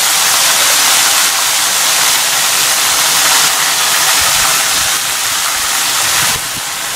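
Salt-cured lemon pieces sizzling loudly in a pan of hot sesame oil: a steady hiss that eases a little near the end, when a spoon starts stirring them.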